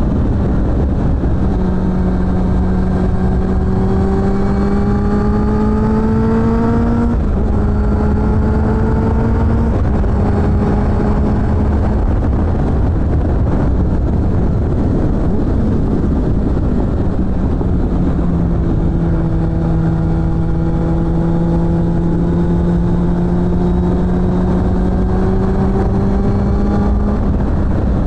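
Suzuki GSF600 Bandit's inline-four running through a BOS exhaust, its pitch climbing slowly as the bike pulls in gear. About seven seconds in the pitch drops sharply at an upshift, then it climbs again. Later comes a long, steady climb.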